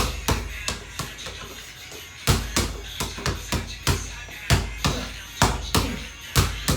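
Basketball dribbled hard on a court during ball-handling drills: sharp bounces with a deep thump, about three a second, with a break of about a second shortly after the start.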